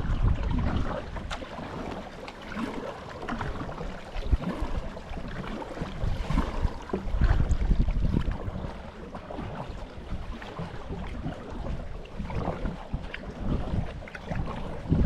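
Wind buffeting the microphone in uneven low gusts over a rush of flowing water.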